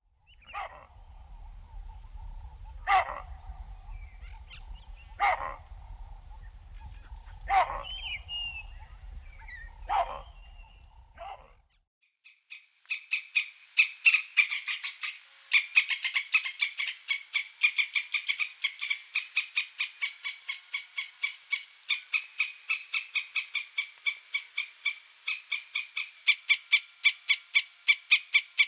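Animal calls in two runs: first a short call repeated about every two seconds over a low rumble, then, after a brief pause, a fast, even series of short calls, about three or four a second.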